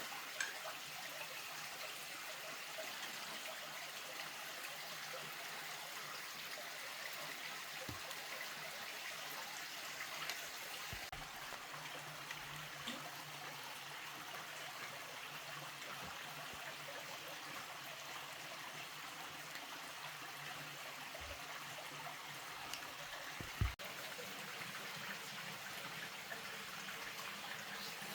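Steady rain and running water, an even hiss, with a few soft knocks; a sharper knock comes about two-thirds of the way through.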